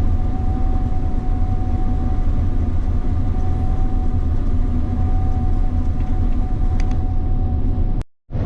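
Swather running steadily in the field: a constant low engine drone with a steady whine over it. The sound cuts out briefly about eight seconds in.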